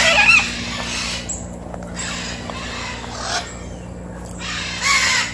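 A pair of birds calling in loud, harsh screeches: one at the start, shorter calls about a second and three seconds in, and another near the end.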